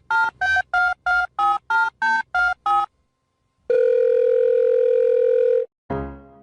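Telephone keypad dialing: ten quick two-note beeps in a row, followed after a short pause by a long steady tone of about two seconds. Piano notes begin near the end.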